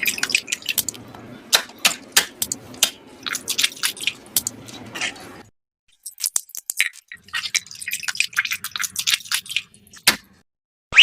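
Irregular clicks and taps of small hard objects being handled, over a faint low hum. The sound cuts out abruptly twice, about halfway through and again near the end.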